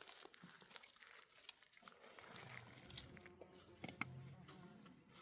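Near silence, with faint scattered clicks and a faint low hum that comes in about two seconds in.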